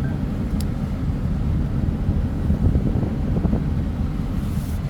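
Steady low rumble of a vehicle driving slowly through heavy rain, with one short click about half a second in.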